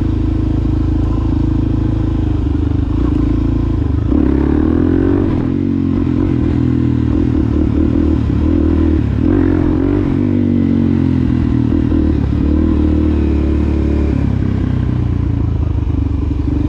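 Suzuki DRZ400SM's single-cylinder four-stroke engine through a Yoshimura exhaust, heard from the rider's seat while riding. It holds a steady speed at first, then is revved up and down several times from about four seconds in.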